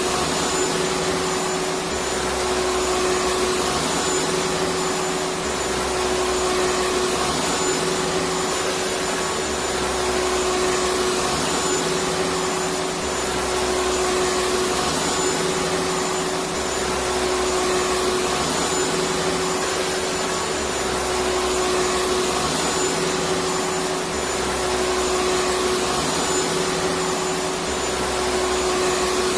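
Electric vacuum cleaner running steadily: an even rushing hiss with a constant hum, and a faint low throb that repeats about every two seconds.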